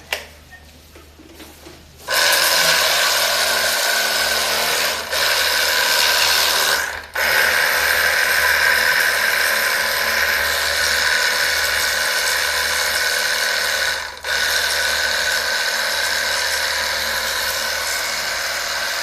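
A power tool starts about two seconds in and runs steadily, cutting out briefly twice and starting again each time.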